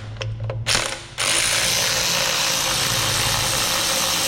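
Power ratchet spinning, backing out a bolt: a short burst about a second in, then a steady run that keeps going.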